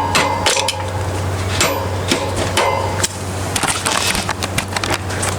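Repeated metallic taps at an irregular pace, several a second, the first few with a brief ring: a screwdriver striking the numbered rear chain adjuster of a 1981 Yamaha XT250 to draw a new chain tight.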